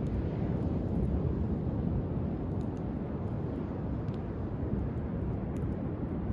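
Driftwood campfire crackling faintly, with small scattered pops, over a steady low rumble of surf.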